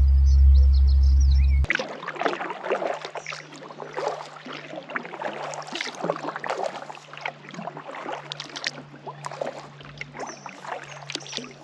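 Kayak paddle strokes dipping and splashing in lake water, with drips, one stroke after another. It starts after a sudden cut, about a second and a half in, from a loud low rumble with birds chirping over it.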